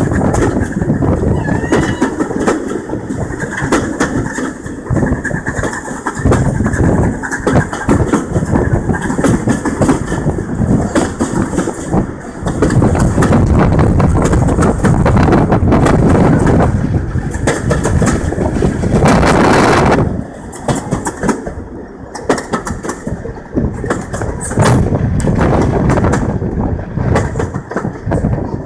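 Steam-hauled passenger train running along, heard from an open carriage window: a steady rumble of the coaches on the rails with wind buffeting the microphone. A brief loud rush of noise comes about two-thirds of the way through, after which the sound is quieter and more broken.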